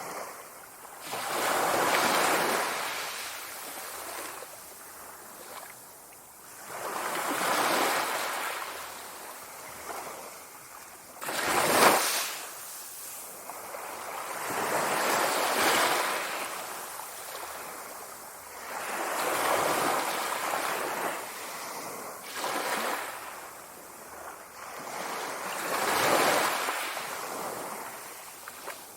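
Sea waves breaking and washing in, swelling and fading every few seconds, with one sharper, louder crash about twelve seconds in.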